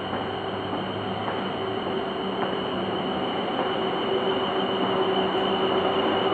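Class 444 Desiro electric multiple unit running along the track, its steady rumble with a thin high tone over it growing louder as it nears.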